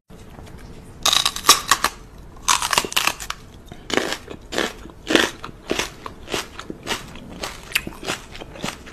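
Crunchy chewing: a run of crisp crunching bites, clustered at first, then about two a second.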